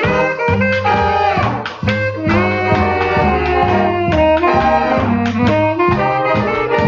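Big-band swing jazz recording with saxophones and brass over a walking bass and a steady beat.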